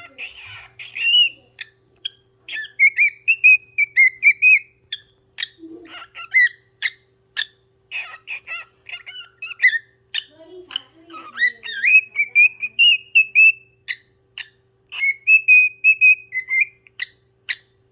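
Pet parrot singing: whistled, warbling phrases, several held for a second or two and wavering around one pitch, broken up by short sharp clicks.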